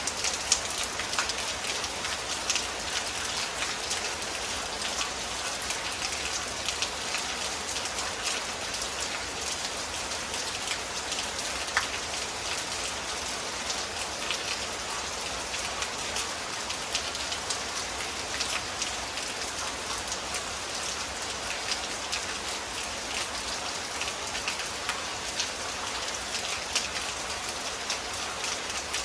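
Rain from a summer storm falling steadily: a continuous hiss dense with the ticks of drops striking, with a few louder single hits scattered through.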